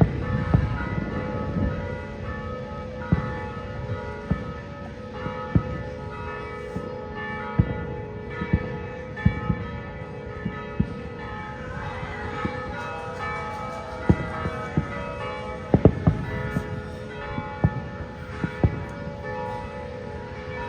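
Fireworks going off in irregular bangs, several close together near the end, over a steady ringing of bell-like tones.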